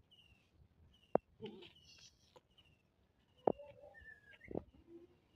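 A small bird chirping over and over, short falling notes about once a second. A few sharp clicks stand out louder between them.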